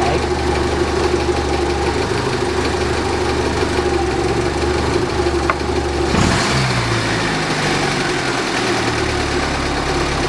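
Saab 90 engine idling steadily on its Stromberg carburettor, which is set to full rich for tuning. A little after six seconds there is a brief rush of noise and the engine note changes.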